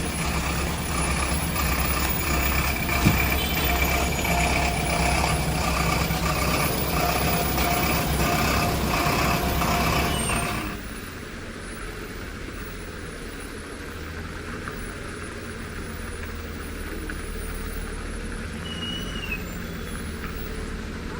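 Truck engine running loud and steady with a whining tone over it, then dropping suddenly about halfway through to a quieter low rumble.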